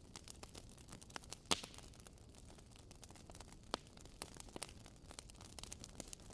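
Wood fire crackling in a fireplace: faint, irregular snaps and pops over a soft hiss, with a sharper pop about a second and a half in.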